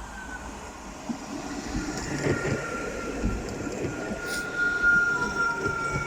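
Nottingham Express Transit Alstom Citadis tram pulling into the stop: wheels rumbling and knocking on the rails under a steady high-pitched whine that is loudest about five seconds in.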